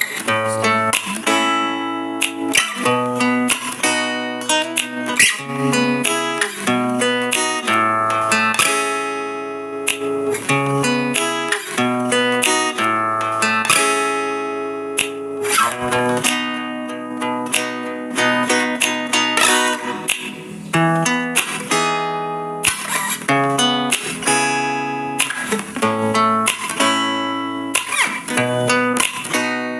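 Background music on acoustic guitar: plucked and strummed notes over a bass line.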